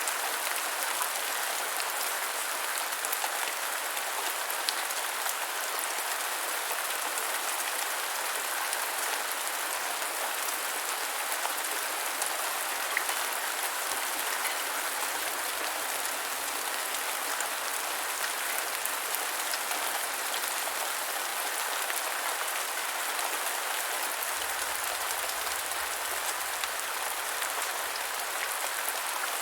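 Steady rain falling on the ground, an even hiss dense with small drop patters.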